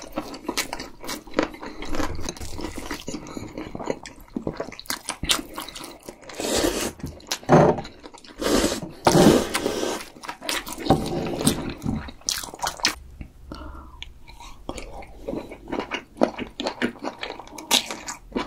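Close-miked eating: two people chewing and biting into spicy tteokbokki and noodles, with wet clicks and crunches throughout. The loudest, noisiest bites come about six to ten seconds in.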